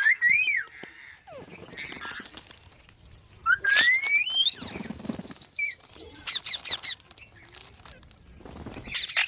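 Pet green parrot calling: short squawks and whistled chirps, several separate calls, with a long rising whistle about three and a half seconds in.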